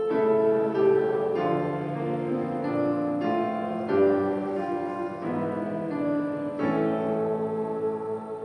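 Church keyboard playing a slow sequence of held chords between the sung responses and the prayer, fading out near the end.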